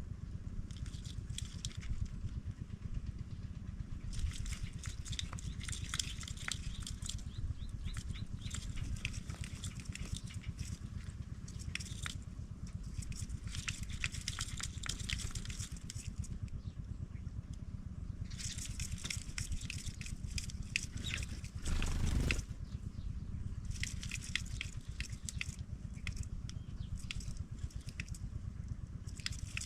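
Pipit nestlings calling in repeated bursts of high, rapid chirps, each lasting a few seconds, over a steady low rumble, with a brief louder gust or knock about 22 seconds in.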